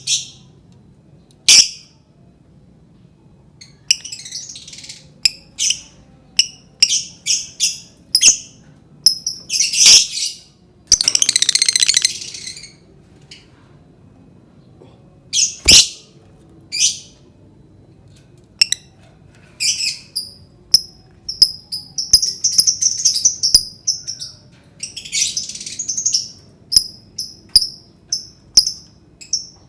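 Lovebird giving short, sharp, high-pitched chirps in irregular runs. About eleven seconds in comes one long rapid chattering trill of about a second and a half, and the chirps crowd together more densely near the end.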